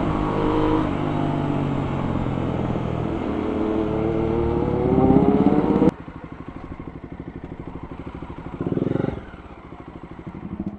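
Motorcycle engine revving, its pitch dipping and then climbing steadily before it cuts off suddenly about six seconds in. After that a quieter engine runs with an even low pulse, with a brief louder burst near nine seconds.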